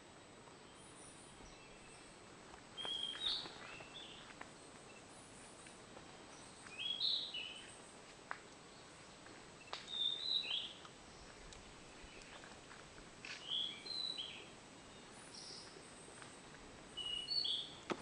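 A wild bird singing a short phrase of a few quick notes that jump up and down, five times, about every three and a half seconds, with faint high chirps from other birds in the background.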